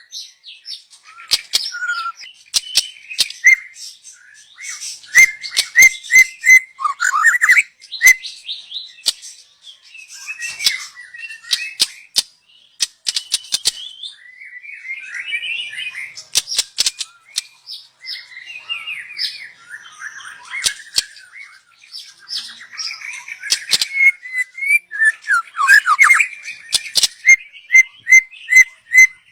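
A young white-rumped shama (murai batu) singing a long, varied song: whistled phrases, chattering runs of quick repeated notes and sharp clicks.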